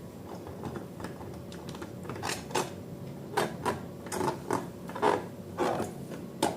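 Close-up handling noises: a run of irregular clicks and crackles, sparse at first and coming thicker after about two seconds.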